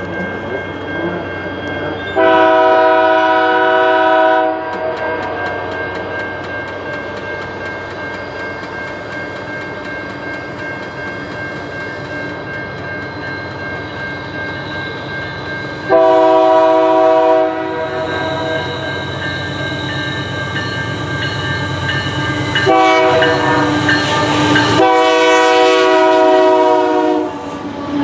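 Lead CP GE AC4400CW locomotive's multi-chime air horn sounding two long blasts, a short one and a final long one: the standard long-long-short-long signal for a grade crossing. Between blasts the passing train's engines and wheels run steadily.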